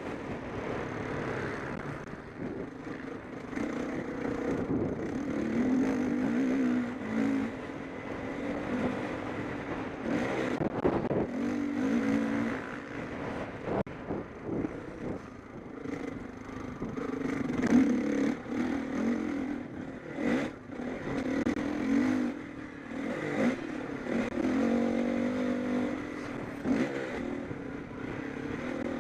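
Motocross bikes racing, their engines revving up and down again and again through the gears as they pass.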